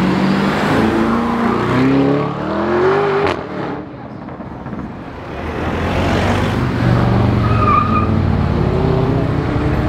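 Lamborghini Urus twin-turbo V8 accelerating away, its engine note rising through the revs for about three seconds. After a quieter spell it runs on as a steady engine drone while it pulls away again.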